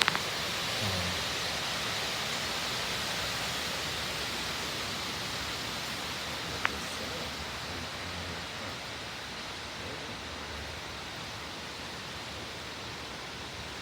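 Strong thunderstorm gust-front wind rushing through trees: a steady rush of noise that slowly eases, with a sharp click near the start and another about seven seconds in.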